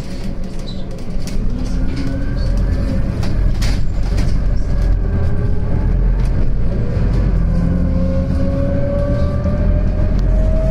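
Scania CN280UB CNG city bus running, heard from inside the cabin: a steady low rumble, with the engine and drivetrain tone rising in pitch over the second half as the bus accelerates. A brief sharp knock comes a little under four seconds in.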